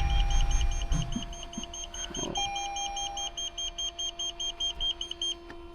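Toyota Avalon engine cranking or briefly running as it struggles to start with water in its injectors, dying away about a second in. Over it, a rapid electronic beeping, about five beeps a second, stops near the end.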